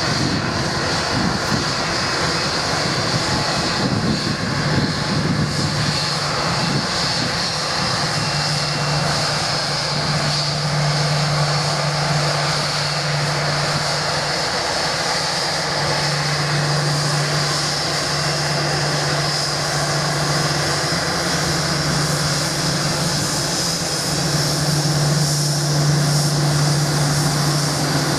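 Jet airliner engines running: a loud, steady engine noise with a high whine and a low hum that fades in and out.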